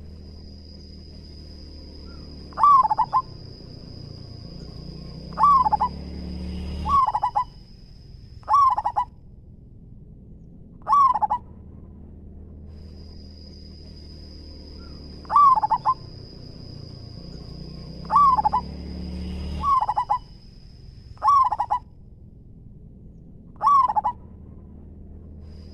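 Zebra dove (perkutut) cooing: about ten short, loud coo phrases, one every two to three seconds. A steady high whine runs behind most of it.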